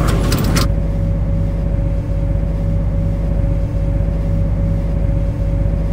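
Steady electrical hum of a standing MTR C-Train electric multiple unit, with a constant tone over it and faint low pulses about every second and a half. A short hiss in the first half second cuts off suddenly.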